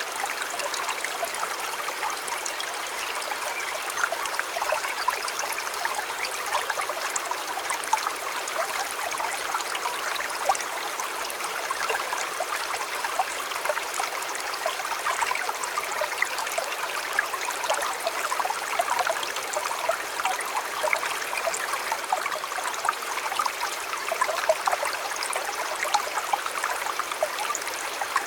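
A shallow river or stream flowing steadily, with continuous splashing and trickling over stones.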